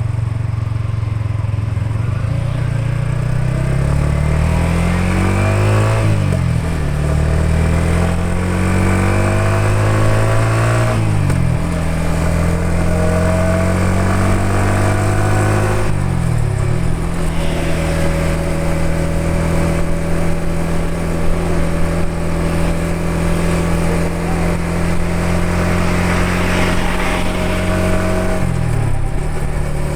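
Yamaha XSR 155's single-cylinder engine pulling through the gears. Its pitch climbs, then drops sharply at each of four upshifts, with a long steady cruise in the middle.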